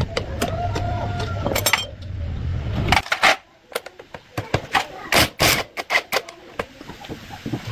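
A motorcycle engine running, cutting off abruptly about three seconds in, followed by scattered sharp clicks and knocks.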